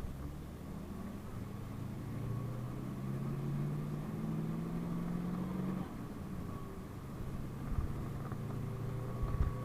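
PAZ-32054 bus engine running under way, its note rising slowly as the bus pulls, then dropping suddenly about six seconds in and running steady again. Two low thumps near the end.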